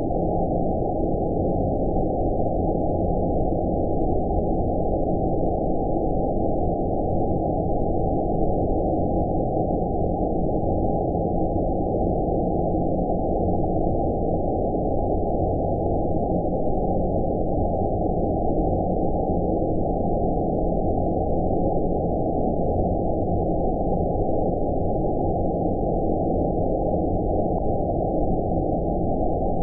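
Steady 'space' white noise for sleep: a deep, muffled rushing hiss with all the higher frequencies filtered out, unchanging throughout.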